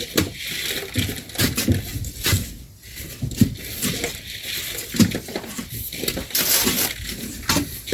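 Shovels digging and scraping into sand, with irregular sharp clinks and scrapes and bursts of sand being thrown during manual loading.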